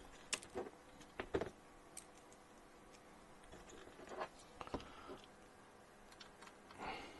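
Faint, irregular clicks and light taps of a small screwdriver and model parts being handled as a tiny screw is driven into the model's base.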